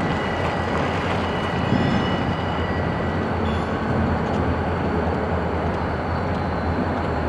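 Freight train moving through a rail yard: the diesel locomotive and cars give a steady low rumble, with a few faint thin high tones above it.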